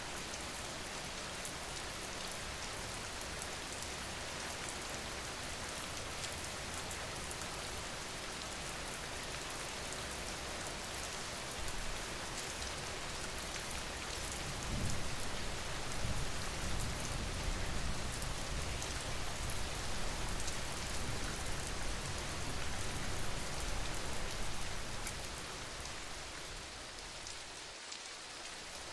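Steady rain falling, an even hiss, with a deeper low rumble swelling up for about ten seconds past the middle.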